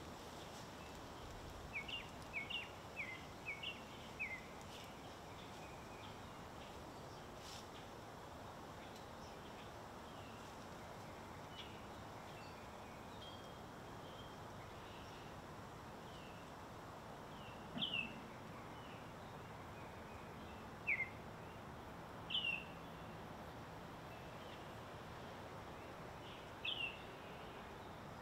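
Small birds chirping over a steady background hiss. A quick run of about eight short chirps comes in the first few seconds, then single louder chirps spaced several seconds apart.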